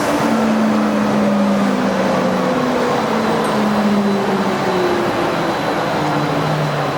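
Skytrain automated people-mover running: a steady rumble with several low motor tones that slowly fall in pitch.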